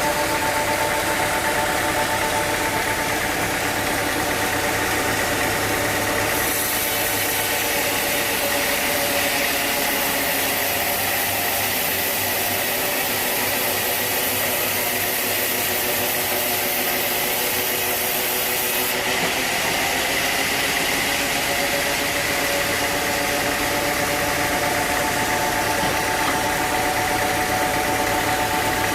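Sawmill machinery running steadily with an engine-like hum. A high hiss joins in about six seconds in and stops again a little past the middle.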